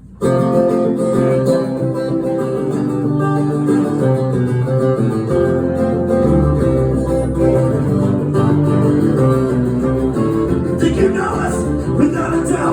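Live acoustic guitar music, strummed chords starting abruptly after a brief pause at the top of a song.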